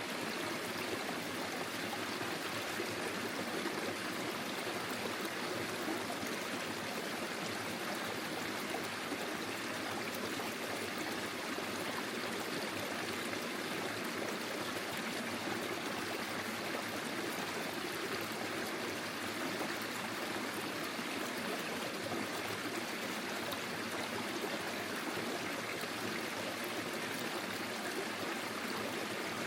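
Forest stream flowing steadily over stones, a continuous babble of running water.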